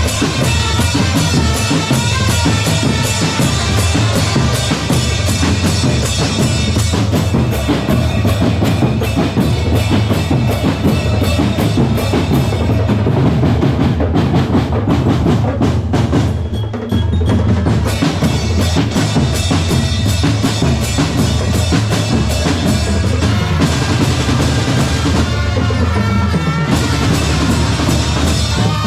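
Percussion corps playing a fast rhythm on bass drums and snare drums, with rolls, under a melody line.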